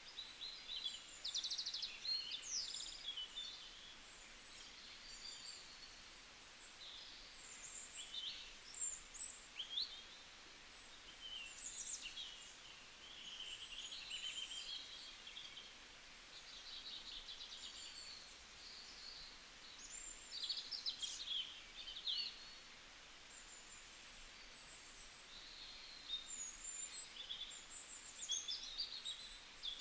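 Several small birds chirping and trilling in a bamboo forest, in bursts of quick high notes and short sweeping calls, over a faint steady hiss.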